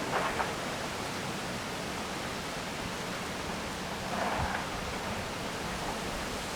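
Steady wind noise, with two short rustles of leaves, one just after the start and one about four seconds in.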